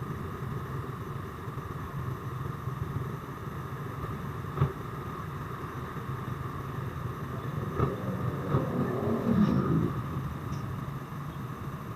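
Motorcycle engine running steadily under way, with a short sharp click about four and a half seconds in.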